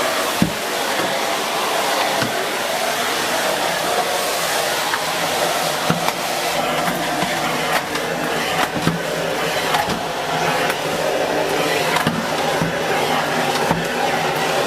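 Miele S6 (C2 Compact) Cat and Dog cylinder vacuum cleaner with its 2000 W motor running steadily as the floorhead is pushed over the floor, with a few light knocks of the head along the way.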